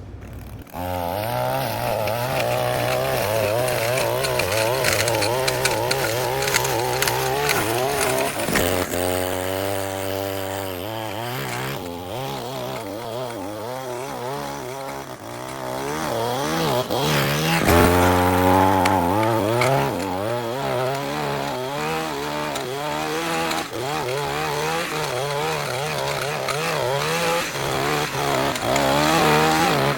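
Small gasoline engine of a lawn-care machine starting up and running at high speed, its pitch dipping and recovering twice, about a third of the way in and again past halfway, as the load changes while cutting grass.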